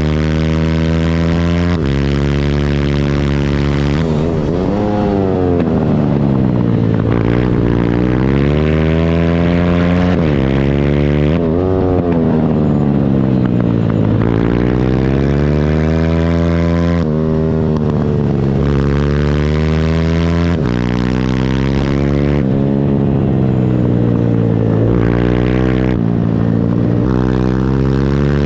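Pit bike engine revving hard through the gears on a race lap. The pitch climbs and falls again every few seconds, with abrupt steps as gears change and the engine comes off and back on the throttle.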